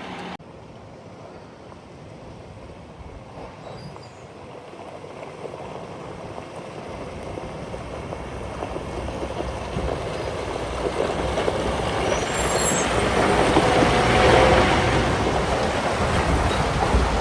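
Heavy vehicle running and drawing closer, its engine and road noise growing steadily louder over most of the stretch, loudest about three-quarters of the way through, then easing slightly.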